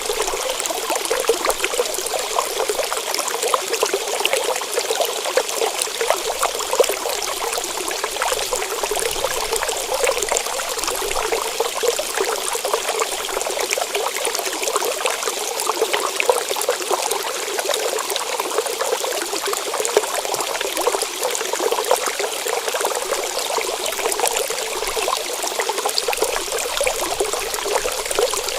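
A stream trickling and babbling steadily.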